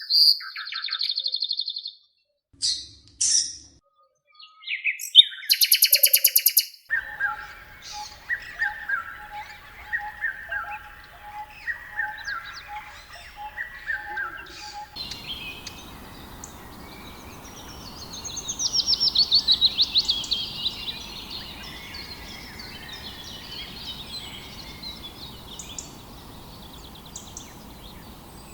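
A sequence of different bird calls: sharp high chirps at first, then a run of repeated descending calls about every second and a half, then a fast trill over a steady background hiss from about halfway in.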